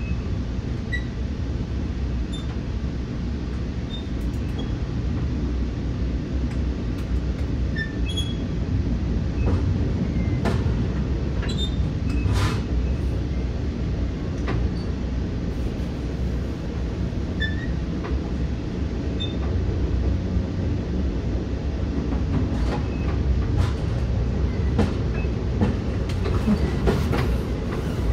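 Metra commuter train running on the Union Pacific West Line, heard from inside a passenger car: a steady low rumble of wheels on rail, with scattered clicks and knocks and a few faint, brief high squeaks.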